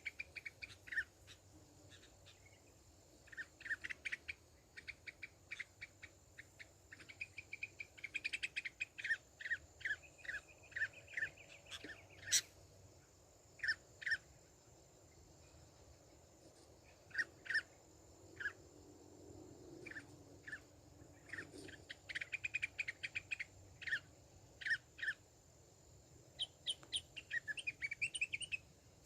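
Sooty-headed bulbuls (kutilang) calling: short bright chirps in quick runs of several notes, with pauses between the runs, over a faint steady high-pitched tone.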